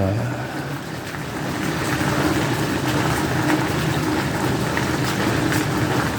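Heavy thunderstorm rain pouring down, a steady dense hiss with scattered drop ticks.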